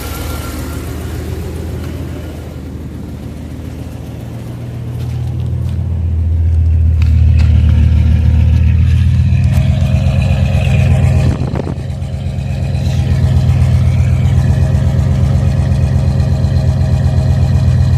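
1992 Dodge B250 van's engine running after a tune-up, sounding pretty good. It grows louder about five seconds in, drops for a moment near the middle, then runs steady again.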